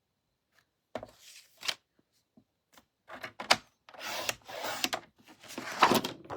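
Cardstock being slid and cut on a paper trimmer: a click, then several short scraping strokes of paper and the trimmer's blade.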